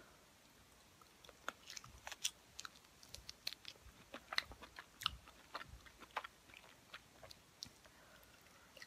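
Close-up chewing and biting of a hot chicken wing: soft, irregular wet mouth smacks and small crunchy clicks, several a second, starting about a second in and thinning out near the end.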